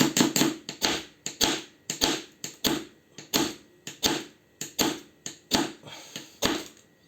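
Knife blade scraped hard and fast along a ferrocerium fire-starter rod, a dozen or so rasping strokes at about two a second, throwing sparks onto tinder.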